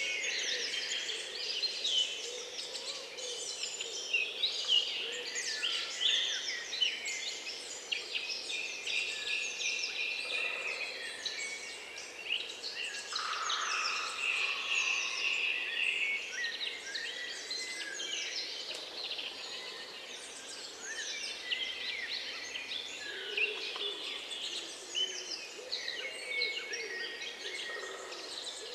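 Many small songbirds singing and chirping at once, a dense chorus of overlapping short notes and trills.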